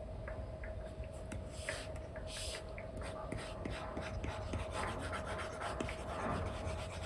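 Apple Pencil with an Elecom nib scratching and tapping on a paper-like screen film over an iPad, in quick short strokes and light taps, a few longer strokes about two seconds in. A faint steady hum runs underneath.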